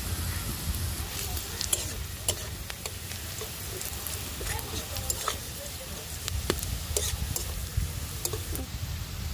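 Chopped vegetables sizzling in hot oil in an iron wok, stirred with a metal spatula: a steady frying hiss broken by frequent sharp crackles and scrapes. A low rumble runs underneath.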